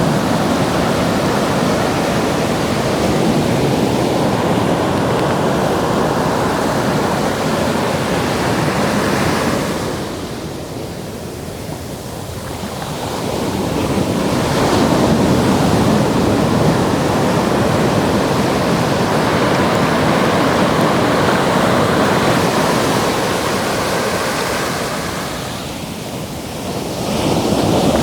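Ocean surf breaking and washing up the shore, a continuous rush that eases off twice and builds back as the next waves come in.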